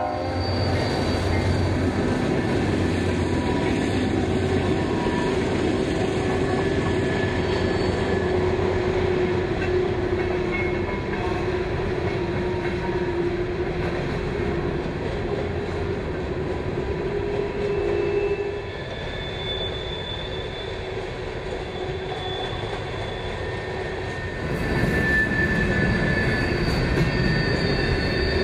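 A train rolling past, its cars making a steady rumble with thin, high wheel squeal coming and going. The sound eases a little about two-thirds of the way through and swells again near the end.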